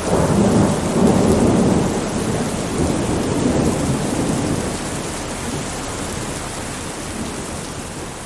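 Thunderstorm: steady rain with a rolling rumble of thunder that swells in the first couple of seconds and then slowly dies away.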